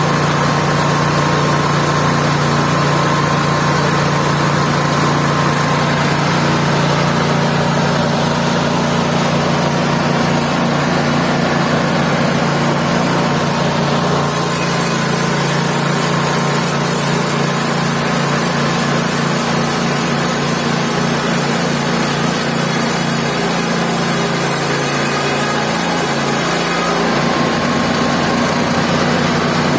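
Mobile band sawmill running steadily, its engine note holding constant and then wavering and shifting in pitch for a few seconds past the middle.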